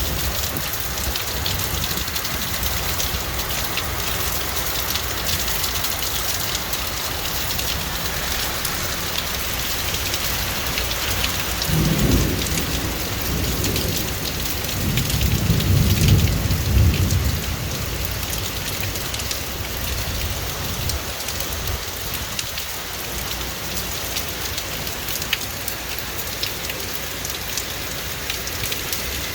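Heavy rain falling steadily, with thunder rumbling twice near the middle, the second rumble louder and longer.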